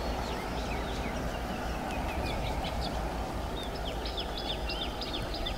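Small birds chirping and calling in short high notes over a steady outdoor background hiss, with a quick run of chirps about four seconds in.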